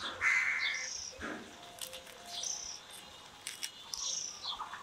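A bird calling over and over, a short high note with a falling tail every second or two, over scattered sharp clicks of a knife chopping green chillies.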